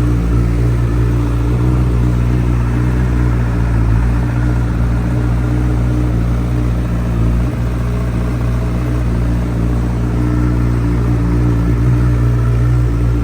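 Honda CBR1000RR SP2 race bike's inline-four engine idling steadily through a full titanium Akrapovic exhaust.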